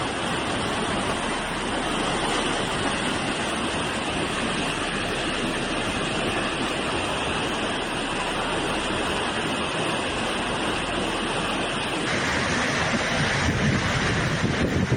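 Floodwater rushing through a street, a steady noisy rush of water; the sound changes abruptly about twelve seconds in.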